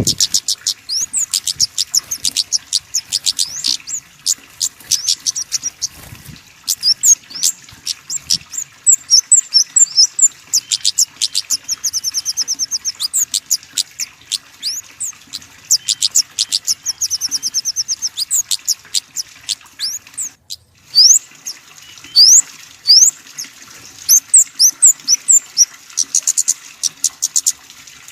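Small songbirds calling fast and high: a dense run of sharp, thin chips mixed with quick dry trills, with a short break about two-thirds of the way through.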